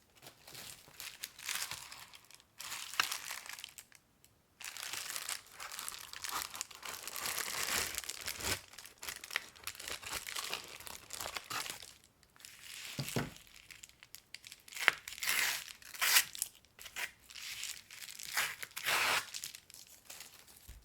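Packing material being crumpled, crinkled and torn by hand while wrapping a parcel, in irregular rustling bursts with a few sharper cracks near the middle.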